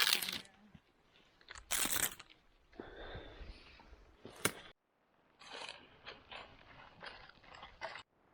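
Irregular crunching and rustling, in short sharp bursts with a brief pause about halfway through.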